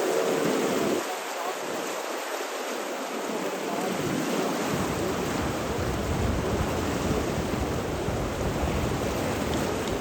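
Steady rushing water, an even hiss; the sound shifts about a second in, and from about five seconds in a deep rumble joins beneath it.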